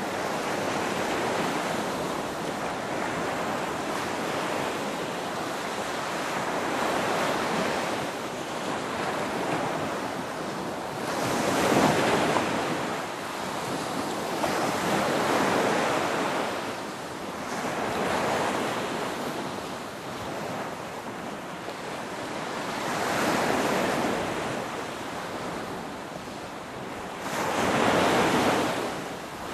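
Ocean waves breaking one after another over a steady wash of surf. Each wave swells and fades over a few seconds, the loudest about twelve seconds in and near the end.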